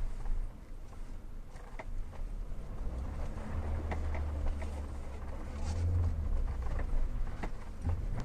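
A 2016 Hyundai Tucson (TL) driving over uneven road: a low rumble with scattered short knocks and creaks from the body or suspension. These are the creak and knock noises on bumps that are the car's fault.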